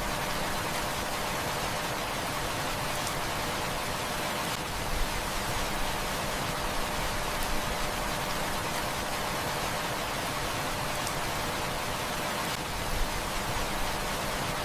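Heavy rain falling in a steady hiss, with a few faint clicks now and then from a crackling wood fire.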